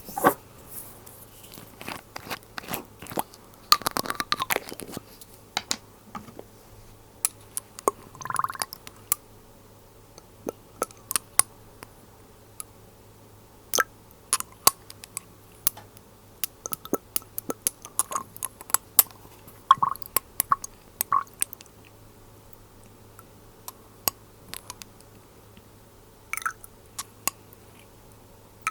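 Glass dropper bottle and its lid handled close to the microphone: many small, sharp clicks and taps at irregular intervals, with a few short squishy sounds between them.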